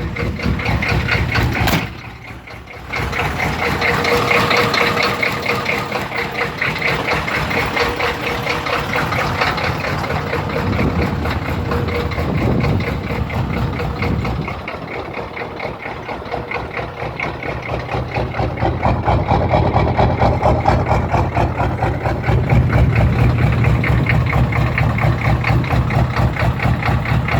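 GM 6.2-litre V8 diesel idling steadily shortly after a cold start in freezing weather, left to warm up.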